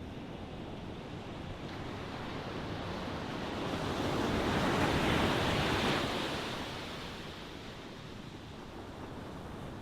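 Ocean waves washing on a shore, one wave swelling to its loudest about five seconds in and then drawing back into a steady surf hiss.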